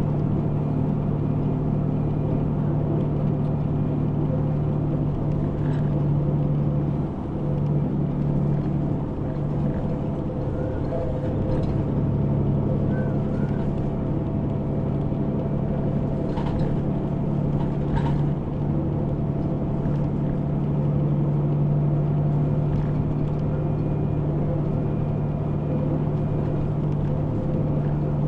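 Route bus heard from inside the cabin while driving: a steady engine drone with road rumble and a few faint rattling clicks.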